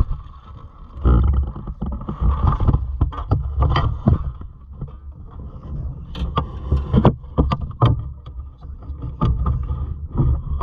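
Wind buffeting the microphone in gusts, with irregular knocks and clatter from things being handled in a small fishing boat.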